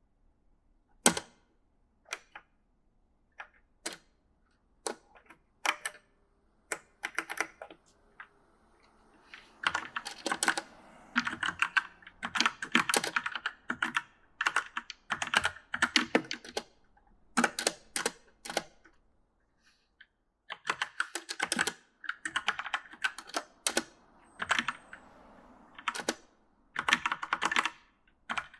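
Typing on an E-Element mechanical gaming keyboard: a few single keystrokes about a second apart, then from about nine seconds in, quick runs of clacking keys broken by short pauses.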